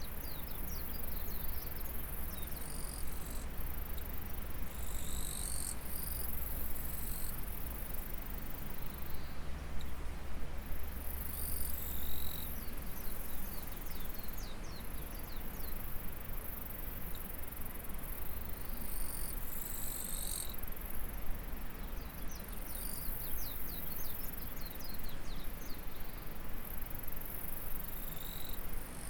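A river or stream runs with a steady rush under insects singing in the rice paddy: a high-pitched buzzing that starts and stops every few seconds, with runs of short, quick chirps. A low rumble sits underneath for the first half and then fades.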